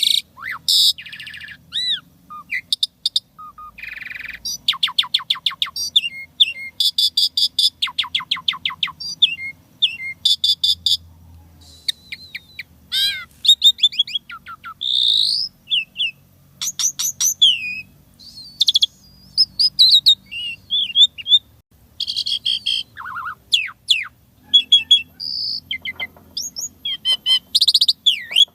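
Asian pied starling (jalak suren) singing a long, varied song packed with mimicked phrases: loud whistles, sliding notes and fast rattling runs of repeated notes.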